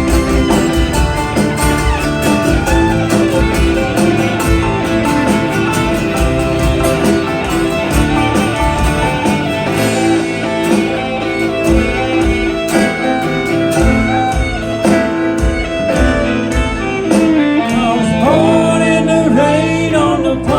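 Band playing an instrumental break: a guitar lead with bending notes over a steady drum beat.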